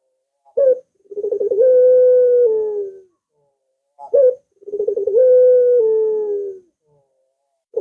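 Puter dove (ringneck dove) cooing twice. Each coo is a short note followed by a long, rolling call that holds one pitch and then drops a step at the end.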